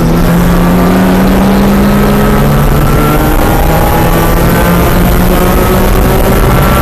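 Race car engine heard on board under hard acceleration, its pitch climbing steadily as the revs rise, over loud wind and road noise.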